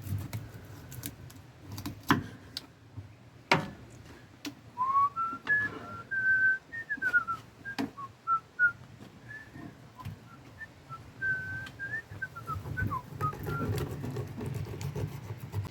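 A person whistling a slow tune of held and gliding notes, starting about a third of the way in and fading near the end. A few sharp knocks come before it.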